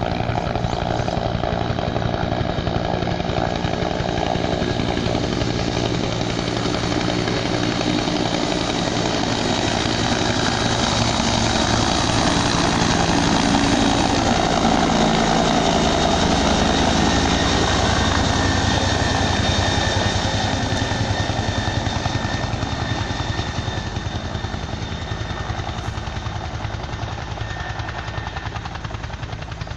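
Aircraft engine and propeller or rotor noise, steady and loud, building to a peak about halfway through and then fading as the aircraft moves away.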